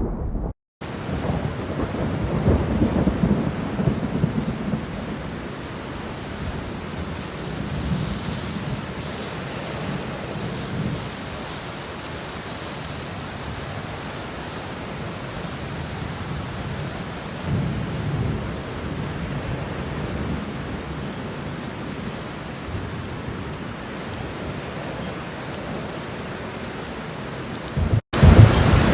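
Made-up thunderstorm soundtrack: steady rain with low rolls of thunder a couple of seconds in, around ten seconds and again near eighteen seconds. The sound cuts out briefly near the start and again just before the end, where louder thunder starts.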